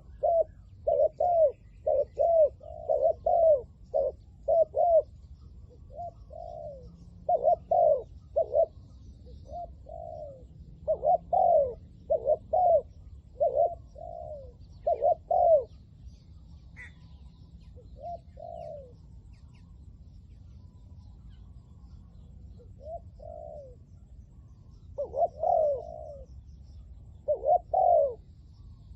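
Spotted doves cooing: short, downward-curving coo notes in quick groups, nearly continuous for the first fifteen seconds or so, then sparser phrases with pauses between them.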